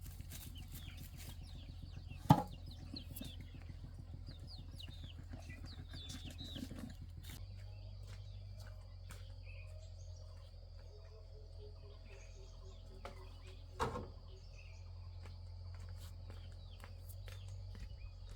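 Small birds chirping over a steady low rumble of outdoor background noise, the chirps thinning out after the first several seconds. Two sharp knocks, one about two seconds in and one near the fourteen-second mark, stand out as the loudest sounds.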